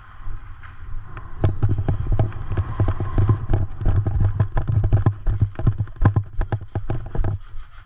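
Footsteps of a person running, a quick, uneven series of heavy thuds starting about a second and a half in and stopping shortly before the end.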